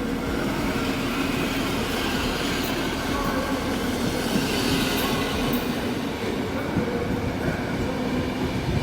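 Passenger train moving through the station, a steady rumble of wheels on rails.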